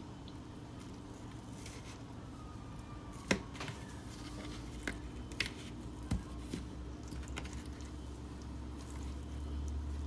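Raw chicken pieces being turned over by hand: soft, wet handling with a few sharp light clicks and taps, over a faint low hum.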